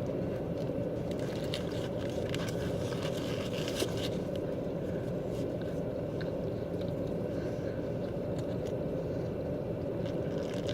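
Close-up chewing and biting: small wet clicks and crunches scattered through, over a steady low hum inside a car.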